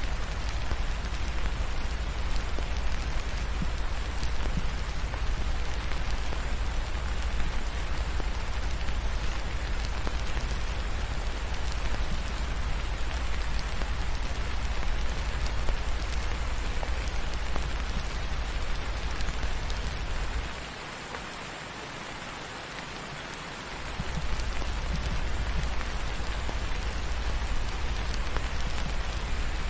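Steady rain falling, an even hiss over a low rumble. The rumble drops away for about three seconds past the two-thirds mark, then returns.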